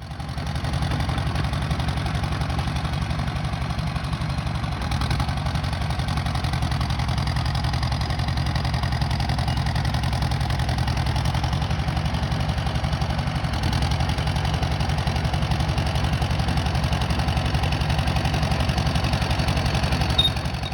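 John Deere 450-C crawler bulldozer's diesel engine running steadily, picking up a little about five seconds in and again around two-thirds of the way through.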